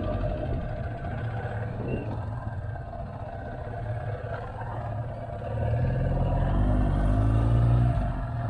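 Motorcycle engine running as the bike gets under way, with a steady low rumble. About five and a half seconds in it grows louder and rises in pitch as it accelerates, then eases off shortly before the end.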